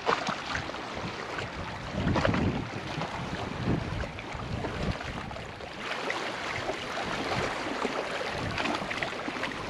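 Small waves washing on the shore of a calm sea, with light wind on the microphone; the sound swells softly a few times.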